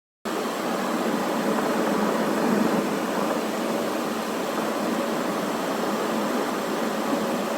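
Steady rushing noise of strong sandstorm wind, cutting in abruptly a moment in and holding evenly.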